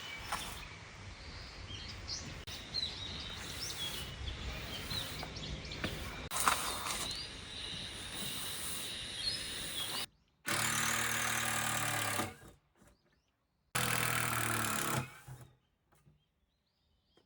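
Outdoor background with small birds chirping now and then and a single click. Then two short runs of a motorised power tool, each starting and stopping abruptly.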